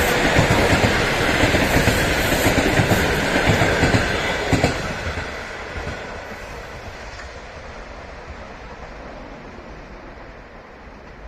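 A train passing close by, its wheels clattering rhythmically over the rail joints, then running away and fading steadily from about five seconds in.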